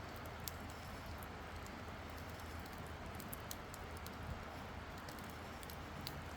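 Wood campfire crackling, with a few sharp pops scattered through a soft steady rush of burning.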